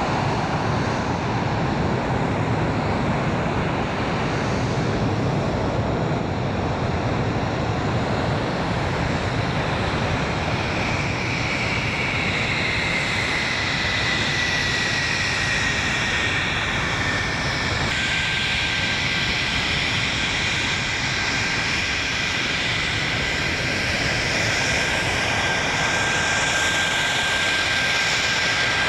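English Electric Lightning F6's twin Rolls-Royce Avon turbojets running with a steady rush and a high whine. About halfway through, the whine glides down in pitch, steps lower once more, then holds steady.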